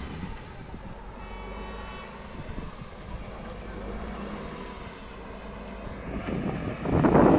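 Heavy off-road trial truck's engine running steadily at a moderate level, then growing much louder near the end.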